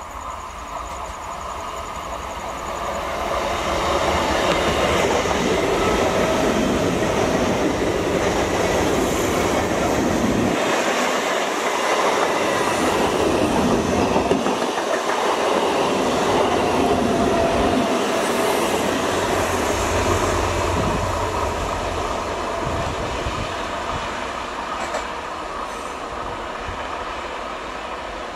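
ICF electric multiple-unit local train passing close by at speed, its wheels clattering over the rail joints. The sound builds over the first few seconds, stays loud, and fades away over the last several seconds.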